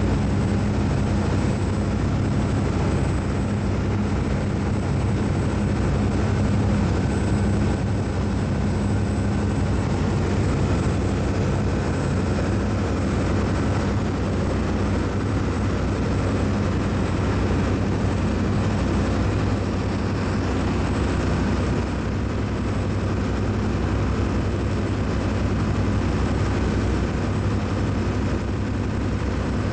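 Steady low engine or machinery drone with a constant hum and an even rushing noise, unchanging throughout.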